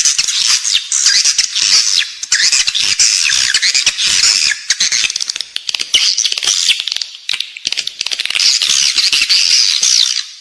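Edible-nest swiftlet calls, a swiftlet-house lure sound: dense, continuous high twittering chirps mixed with rapid clicking, played to draw the birds in to roost and nest.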